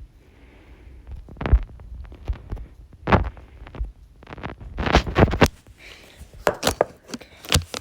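Irregular sharp knocks and heavier thumps of mini-stick hockey play: plastic mini sticks striking the ball and bumping on the floor, with a quick cluster of hits about five seconds in.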